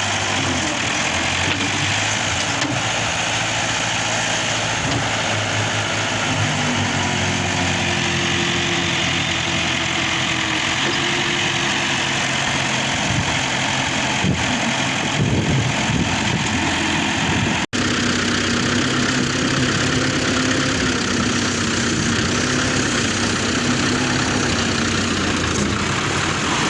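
New Holland 640 tractor's diesel engine running steadily, with shifting low tones over the engine noise; the sound cuts out for an instant about two-thirds of the way through.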